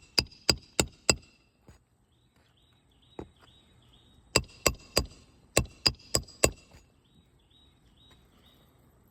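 A roofing hammer strikes a steel roof snake, driving a roofing nail in under a lifted asphalt shingle. Each blow is sharp and rings metallically. Four quick blows come about three a second, then a single blow, then a run of seven.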